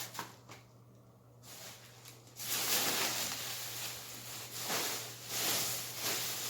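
Plastic shopping bag rustling and crinkling as groceries are handled, starting suddenly about two seconds in and running on loudly.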